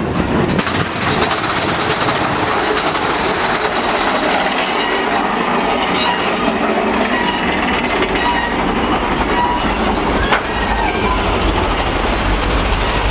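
Big Thunder Mountain Railroad mine-train roller coaster running along its track, heard from on board: a steady loud rattle and clatter of the cars and wheels, with some thin wheel squeals and a sharp clank about ten seconds in.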